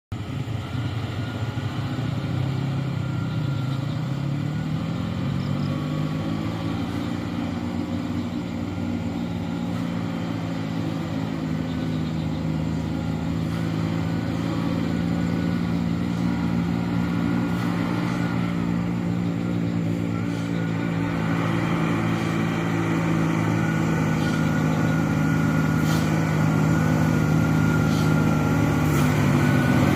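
Diesel engine of a stone-laden dump truck running steadily; its pitch dips a few seconds in, rises again and then holds, and it grows gradually louder.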